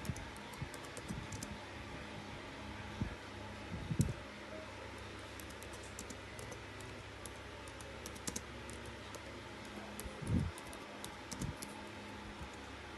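Typing on a computer keyboard in short runs of light key clicks, over a steady low room hum, with a few dull thumps in between.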